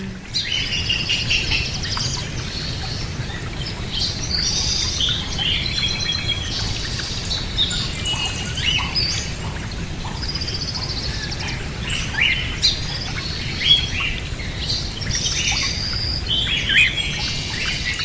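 Several small birds chirping and trilling in short, high-pitched calls that overlap throughout, over a steady low background noise.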